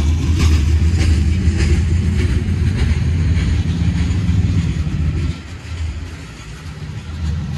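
Train passing close by: a heavy low rumble with a regular clicking about twice a second, dropping off sharply about five seconds in.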